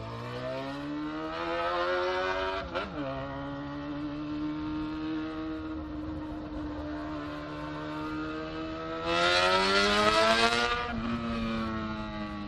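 Honda Hornet motorcycle engine under way, revs climbing steadily then dipping briefly at an upshift about three seconds in, holding steady, then pulling up again, louder, and dropping at another shift about eleven seconds in.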